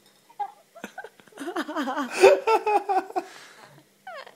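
People laughing: a burst of laughter starting about a second and a half in, with a short rising squeal of a voice near the end.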